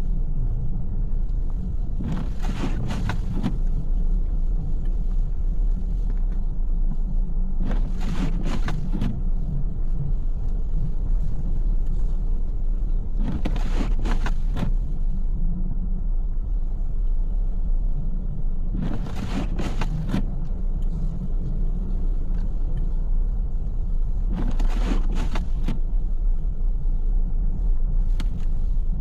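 Car driving in snow, heard from inside: a steady low road and engine rumble. Every five and a half seconds or so comes a brief swish, a regular beat that fits windshield wipers on an intermittent setting.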